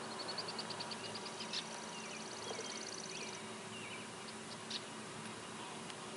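Birds singing in the open: a rapid run of high chirps and a faster high trill over the first half, then scattered short chirps. Under them runs a faint steady drone from a distant tractor working the field.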